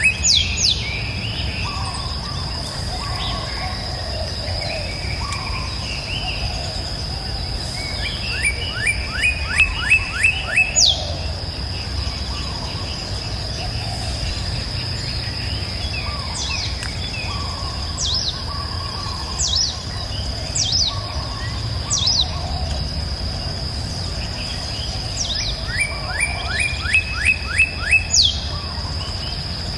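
Birds calling in the open: a run of about eight quick, evenly spaced notes comes twice, and sharp downward-sliding whistles recur. Under them runs a steady high-pitched insect drone with a low rumble.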